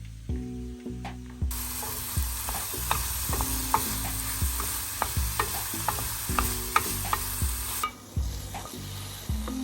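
Food sizzling in a hot frying pan while a utensil stirs it, with scraping and sharp taps against the pan. The sizzle starts about a second and a half in and cuts off sharply a couple of seconds before the end.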